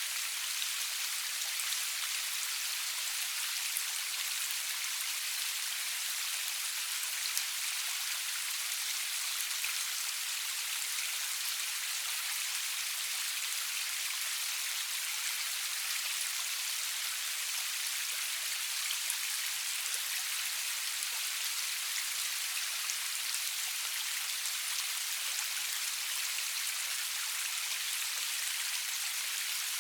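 Steady rain falling, an even hiss with scattered small drop ticks, without thunder.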